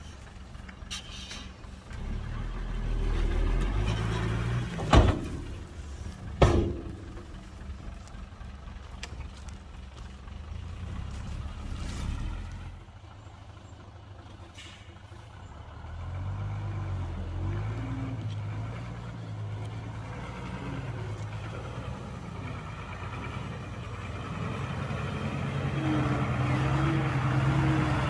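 Heavy diesel engines of dump trucks and a bulldozer working, their pitch rising and falling, with two loud bangs about five and six and a half seconds in. An engine revs up toward the end.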